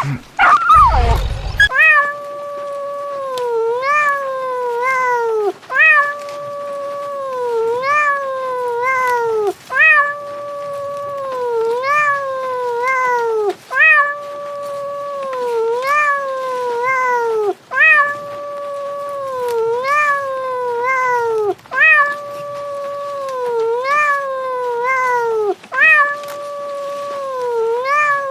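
A cat meowing in long, drawn-out calls that repeat almost identically about every two seconds. Each call holds a steady pitch, then dips and swings back up. A short, loud, rougher sound comes before them in the first couple of seconds.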